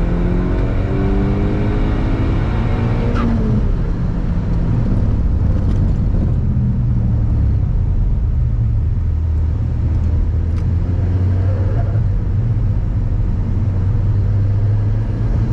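Mk2 SEAT Leon Cupra's turbocharged four-cylinder engine pulling hard on track, with road noise. The engine note rises for about three seconds, drops at a gear change or lift, then holds a steadier, lower drone.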